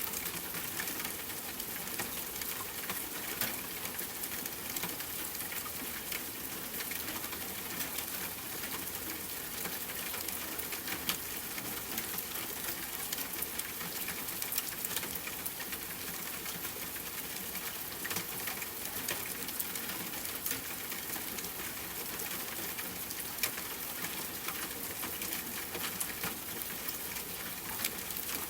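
Steady rain hiss mixed with a fireplace fire crackling, with scattered sharp pops and crackles over an even high hiss.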